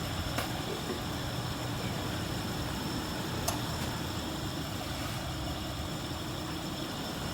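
Car engine idling steadily, running again after a crank-no-start fault caused by water and rust in the fuel tank and an injector clogged with rust; the tank and injector have been cleaned and the fuel pump and fuel filter replaced.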